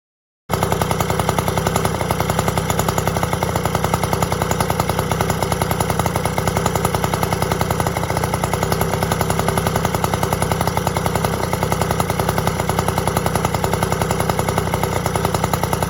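Yamaha QT50 moped's small two-stroke single-cylinder engine running steadily at a fast, even pulse. It cuts in abruptly about half a second in.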